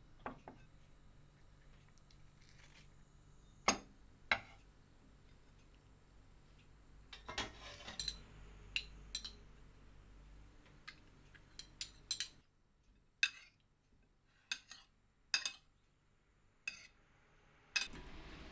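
Dishes and utensils clinking in scattered light knocks. There are two sharp clinks near four seconds and a run of irregular ones through the second half.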